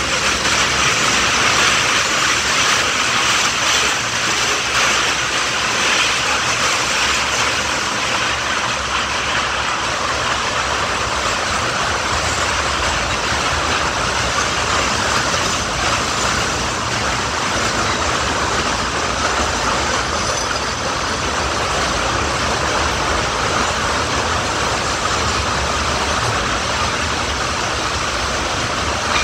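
Kurobe Gorge Railway trolley train running through a tunnel: a steady noise of wheels on rails with a low rumble, loud and echoing off the tunnel wall close beside the open-sided carriage.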